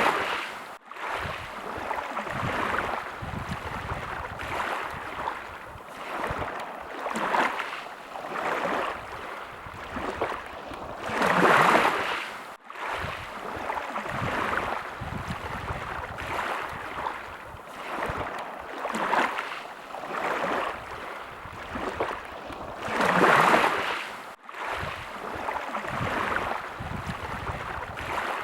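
Small waves lapping at the water's edge, a soft rush of water that swells and fades every second or two. About every twelve seconds a bigger wave surges in, with a brief sudden dip in the sound just after it.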